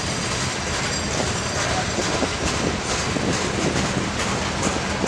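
Train cars rolling past on the rails: a steady rumble of wheels on track with scattered clicks.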